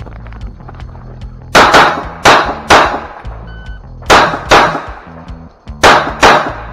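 Glock 34 9mm pistol firing seven shots in three quick strings: three, then two, then two, with pauses between. A brief ring sounds between the first and second strings, about three and a half seconds in.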